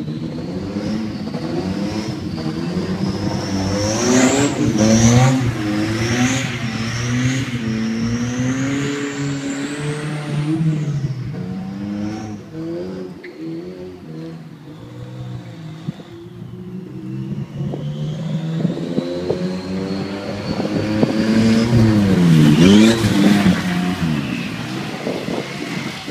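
Car engine revving up and down over and over as the car slides around on wet pavement, with a high whine rising and falling above it. The revs climb loudest and then drop sharply near the end.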